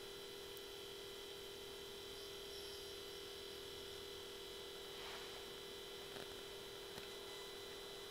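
Faint, steady electronic whine made of two constant tones, one low and one high, with a few faint ticks between about five and seven seconds in.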